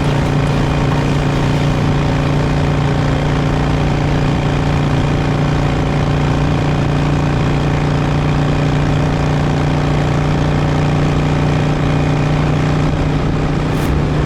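Harley-Davidson Sportster's V-twin engine running at steady revs while riding along, its pitch holding even throughout.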